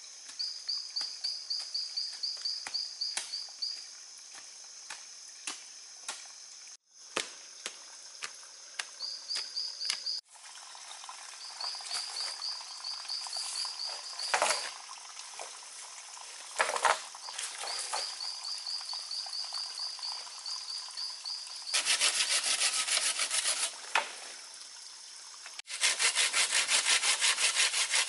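Wood being worked with a hand tool in rhythmic strokes, in several short cut-together stretches; the strokes come faster and louder near the end. A steady high insect trill runs behind.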